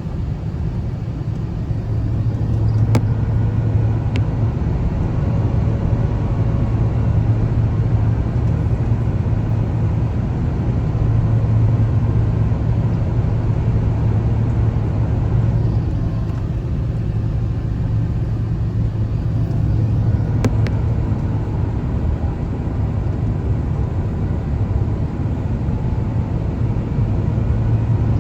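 Steady low rumble of an Airbus A350-1000 in flight or on the ground, its Rolls-Royce Trent XWB engines and airflow heard from inside the passenger cabin, with two brief faint clicks.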